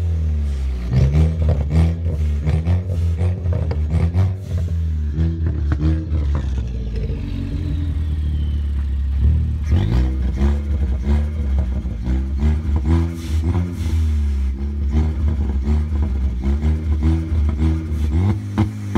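Ford Focus ST engine running through a loud custom exhaust, its revs rising and falling repeatedly over a deep steady rumble, with a sharp surge about halfway through.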